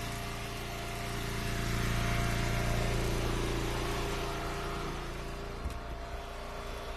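Engine of an Eastonmade hydraulic wood splitter running steadily. It swells louder for a couple of seconds in the middle, then settles, with a few light knocks near the end.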